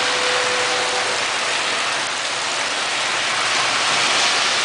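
Torrential rain mixed with hail pouring down onto the street, a steady heavy hiss, with a car driving through the standing water on the road.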